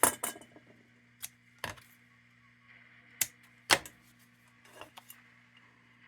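Sheet-metal lantern parts clicking and clacking as they are handled and fitted together: a handful of sharp, separate metal knocks, loudest at the start and again a little past halfway, over a faint steady hum.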